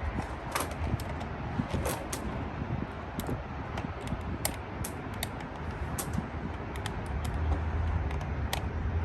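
Irregular light clicks and taps as a plastic remote-control toy stunt car is handled and opened with a screwdriver, over a steady low hum.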